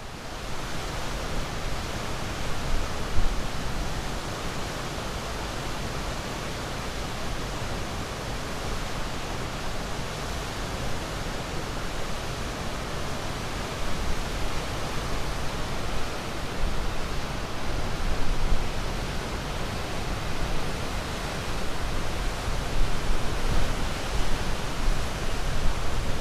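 Sea waves heard as a steady rushing noise, with slow, slight swells in loudness.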